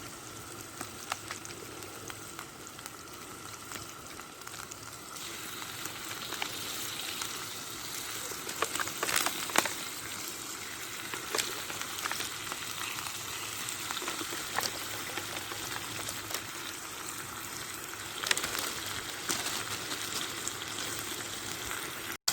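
Sausages wrapped in bacon (pigs in blankets) sizzling in hot oil in a cast-iron Dutch oven over campfire coals. There is a steady frying hiss with frequent spitting pops, a few louder ones about nine seconds in and again near eighteen seconds.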